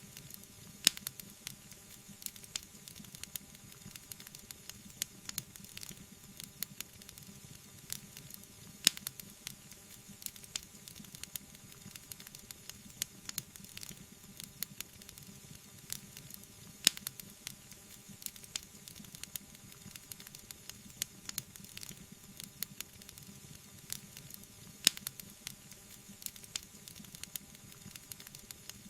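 Wood fire burning in a fireplace: continuous crackling over a soft hiss, with many small pops and a sharper, louder pop about every eight seconds.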